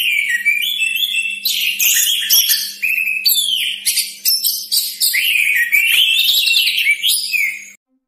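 Orange-headed thrush (anis merah) in full song: a long, unbroken run of fast, varied, high whistled phrases that cuts off suddenly near the end. A faint steady hum sits underneath.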